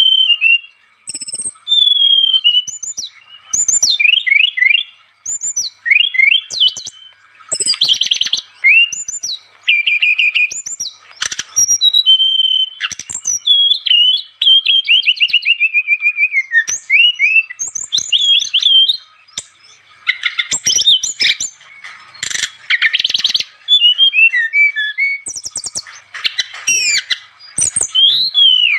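A songbird sings continuously, a busy and varied run of rapid chirps, trills and sliding whistled notes broken by short pauses. This is the sort of 'gacor' song recording played to lure wild birds.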